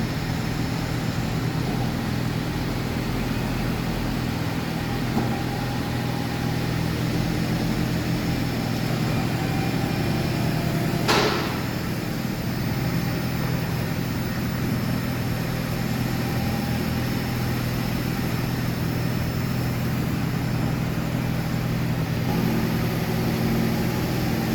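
Nissan X-Trail running with a steady low engine drone, with one short sharp click about eleven seconds in.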